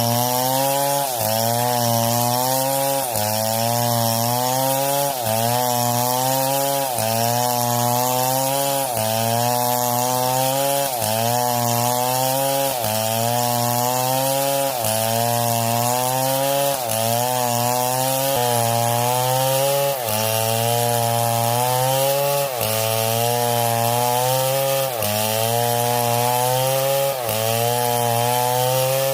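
Chainsaw engine running under load while cutting wood, its pitch dipping and recovering about every two seconds as the chain bogs in the cut and frees again.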